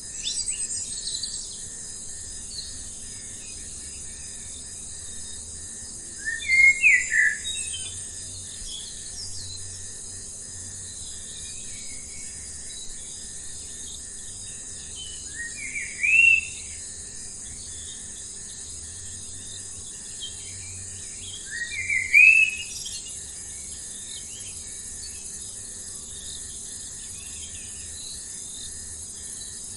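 A bird calling in three short bursts of quick rising notes, spread out every several seconds, over a steady, high-pitched chorus of insects such as crickets.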